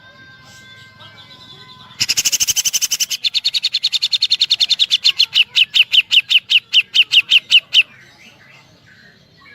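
Grey-cheeked bulbul (cucak jenggot) singing its rapid 'tembakan' trill, the woodpecker-like filling of its song. Sharp high notes start about two seconds in at a very fast rattle, then slow and grow louder before stopping near the end. Faint thin whistles come before it.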